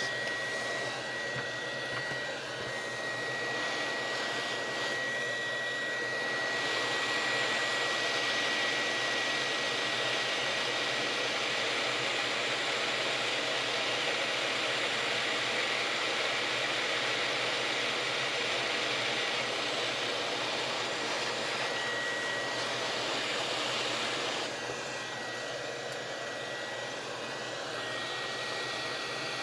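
Hot-air soldering gun blowing steadily, a rush of air with a thin high whine. The airflow gets louder about six seconds in and drops back about twenty-four seconds in.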